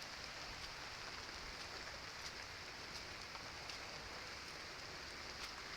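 Rain falling, a steady even hiss with scattered faint ticks of single drops.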